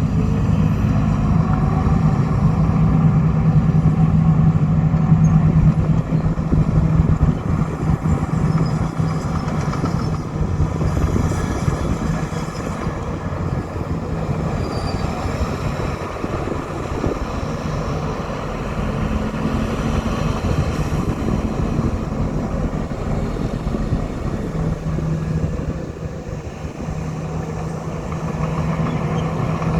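Old Komatsu bulldozer's diesel engine working steadily, swelling louder over the first several seconds and again near the end.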